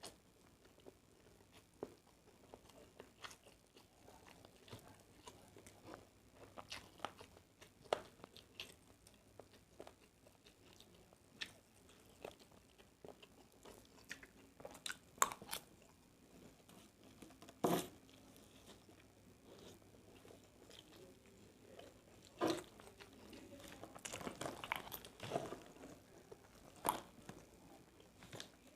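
A person eating fried rice close to the microphone: chewing and crunching, with scattered sharp clicks and knocks and a busier stretch of eating noise near the end.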